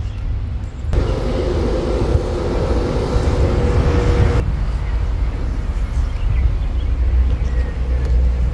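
Car on the move: a steady low engine and road rumble, with a louder stretch of rushing noise and a steady hum from about one second in until about four seconds in.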